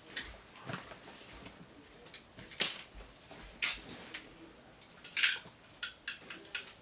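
Metal gear being handled and packed: irregular clinks and knocks, the sharpest about two and a half seconds in and again about five seconds in.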